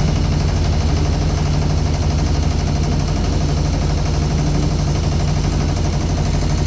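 Motor boat engine running steadily with a rapid, even chugging.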